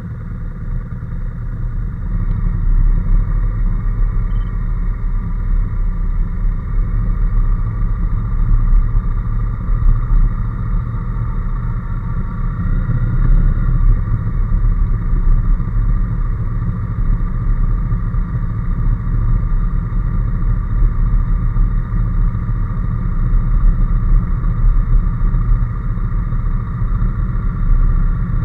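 Honda NC750S parallel-twin engine running at a steady road speed, with heavy wind and road rumble underneath.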